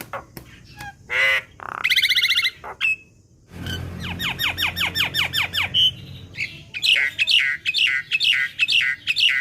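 Javan myna (jalak kebo) calling: harsh squawks and a fast trill, then a quick run of downward-sweeping notes, then rapid loud chattering notes in the second half.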